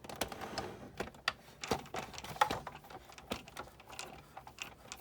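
Irregular small clicks and knocks of plastic and metal parts being handled and worked loose while a Sizzix Big Shot die-cutting machine is taken apart.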